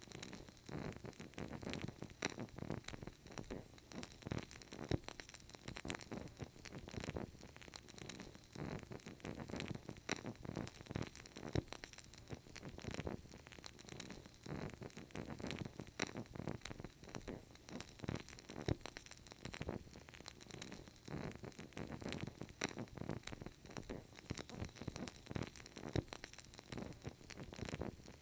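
Burning candle crackling: a steady stream of small, irregular ticks and pops from the wick over a faint hiss.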